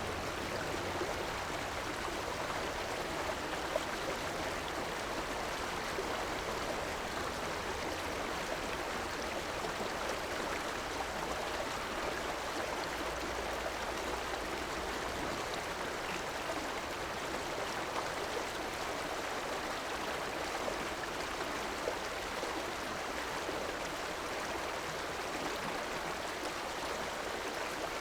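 River water flowing steadily with an even rushing, babbling sound. A faint low rumble underneath fades out about halfway through.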